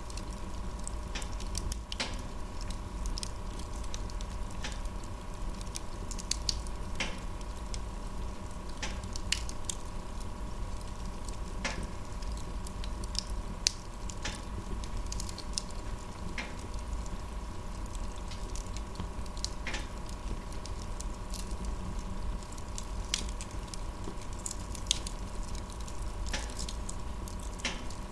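Wood fire crackling, with irregular sharp pops and snaps, a few louder than the rest, over a steady low rumble.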